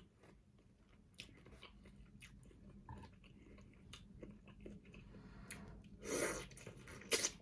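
Close-miked chewing of a boiled shrimp dipped in sauce: faint wet mouth clicks and smacks. A louder mouth sound comes about six seconds in, and a sharp click near the end.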